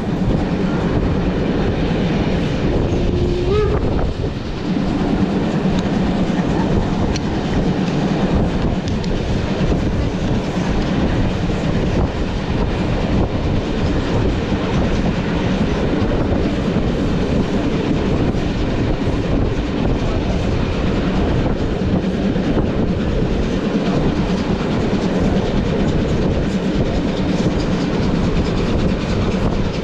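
Steam-hauled heritage train of Umbauwagen coaches rolling along the track, with a steady clickety-clack of wheels over the rails and a continuous running rumble.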